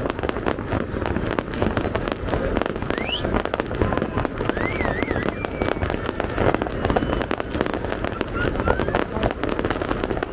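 Big fireworks display going off without a break: rapid, overlapping bangs and crackling over a deep booming rumble, with a few thin whistles rising above it.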